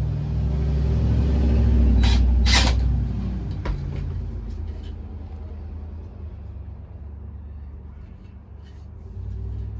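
A low rumble that swells to its loudest about two seconds in and then slowly fades, with two sharp knocks close together at its peak and a lighter click a second later.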